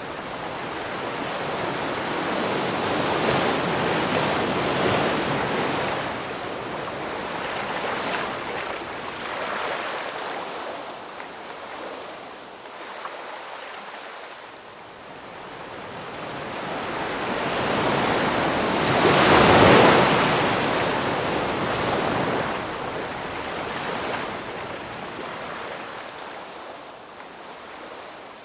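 Ocean surf: waves breaking and washing in, in slow surges of rushing noise. Several smaller swells come in over the first half, and the largest wave breaks about two-thirds of the way through, then recedes.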